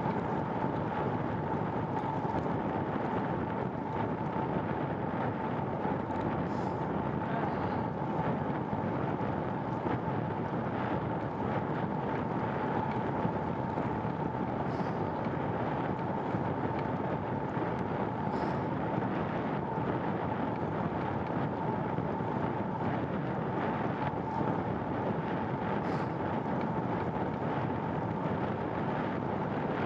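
Steady wind rush on the microphone of a phone carried while cycling, with a constant high hum running underneath.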